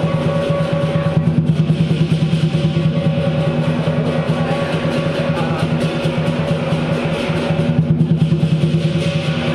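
Lion dance percussion: a drum beating a fast, steady rhythm, with cymbals and a gong ringing over it.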